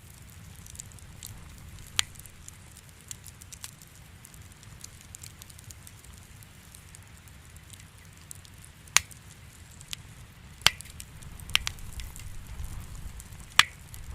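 Wood fire crackling in a fireplace: a low steady rumble with faint small crackles and five sharp pops scattered through, the loudest about nine seconds in and near the end.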